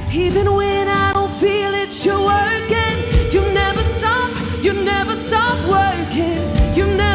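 Live gospel worship song: a lead singer's voice over a band playing sustained chords with a regular low beat.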